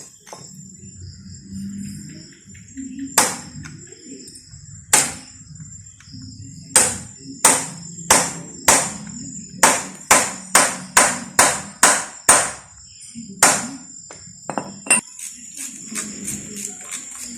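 Sharp metal-on-metal knocks with a short ring after each, about fifteen in all. They come a second or more apart at first, then about two a second in the middle, and thin out near the end.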